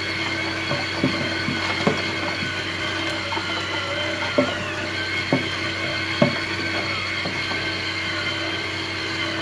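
Small electric gear motors of a scale model dump-pit conveyor running with a steady whine. A few short knocks of clumpy dirt dropping through the hopper and conveyor sound over it.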